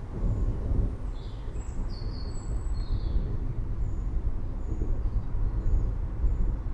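Low, steady rumble of rolling thunder in a rainstorm, with a few high bird chirps between about one and three and a half seconds in.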